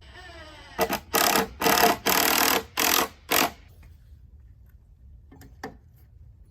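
A power tool's motor whines up in pitch, then runs in about six short, loud bursts over some two and a half seconds, followed by two faint clicks near the end.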